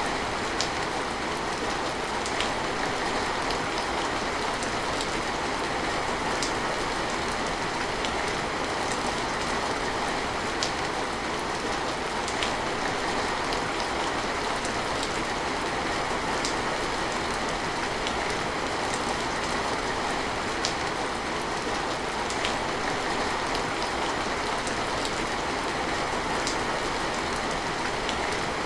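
Steady rain falling, an even hiss with occasional louder single drips striking a surface.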